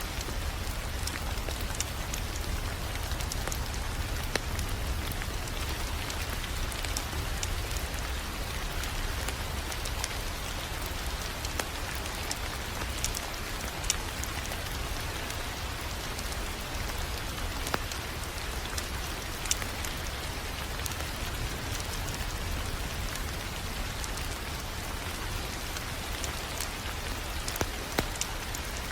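Crackling wood fire: a steady hiss with a low rumble underneath and scattered sharp pops and snaps.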